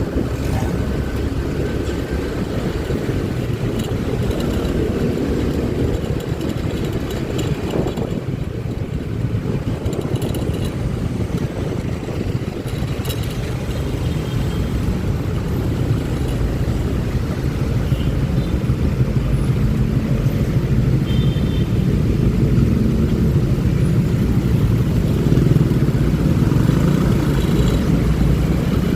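Honda Click 125i scooter under way, its single-cylinder engine running steadily, with a dense low rumble of wind and road noise that grows a little louder in the second half.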